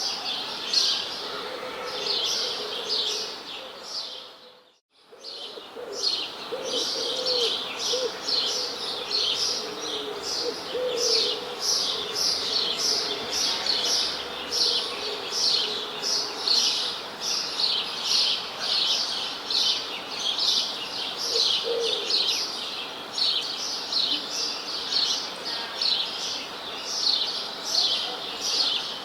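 Birds chirping: a dense, fast run of high chirps, with a few lower calls now and then. The sound cuts out briefly about five seconds in, then carries on.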